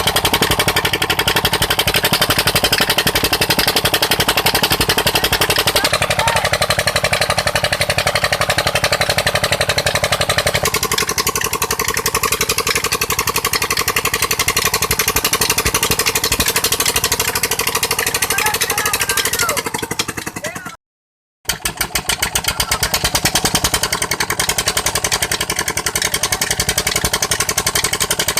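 Petter engine converted to run on LPG, driving a tube-well pump and running steadily with rapid, even firing. The sound cuts out completely for under a second about two-thirds of the way through, then carries on.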